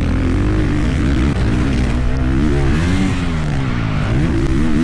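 Dirt bike engine revving, its pitch rising and falling several times as the throttle is opened and closed.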